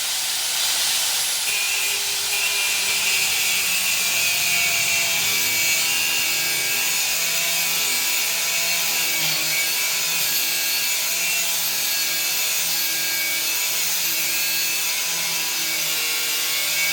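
Angle grinder cutting steel stock, its motor running steadily under load with the whine wavering slightly in pitch as the disc bites.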